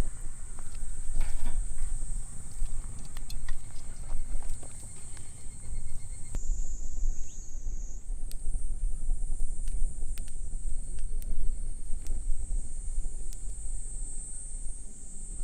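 Outdoor summer ambience: a steady high-pitched insect chorus, with a heavy low rumble underneath and scattered sharp clicks and knocks. The insect drone drops briefly in pitch about six seconds in, then returns.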